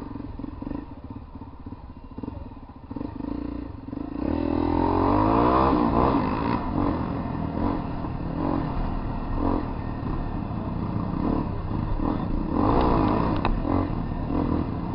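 Four-stroke single-cylinder trail motorcycle engine, low at first, then accelerating about four seconds in with its pitch rising, then running on at riding speed.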